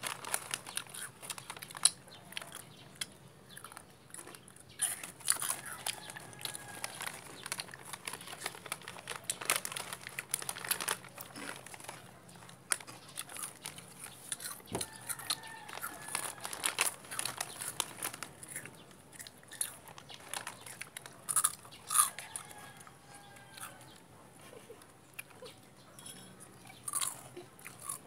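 Close-up chewing and biting of crunchy food: irregular crisp crunches and clicks, with a couple of louder bites about three-quarters of the way through.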